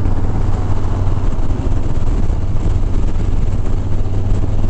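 Harley-Davidson Sport Glide's V-twin engine running steadily at highway cruising speed, with a steady low hum and wind rushing over the microphone.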